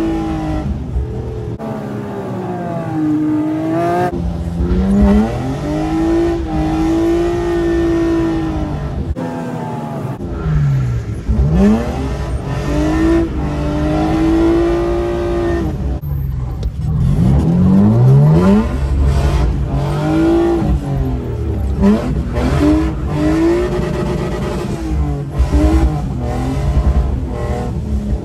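BMW E36 drift car's engine heard from inside the cabin, revving up and down over and over as the car is drifted, with a couple of brief lifts off the throttle.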